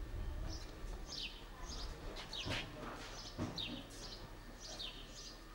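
Small birds chirping: a quick string of short, high, downward chirps, with two dull knocks about two and a half and three and a half seconds in.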